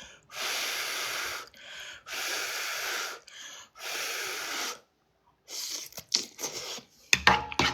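Someone blowing on hot noodles to cool them: three long puffs of breath, each about a second, with short softer breaths between. Near the end come a few light clicks.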